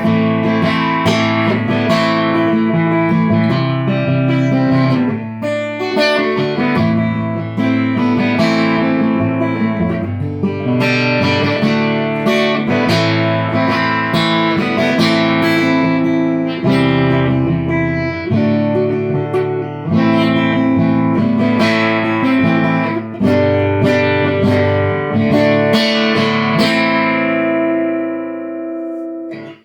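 Guitar playing an instrumental passage of picked notes and chords with no singing; it rings out and fades near the end.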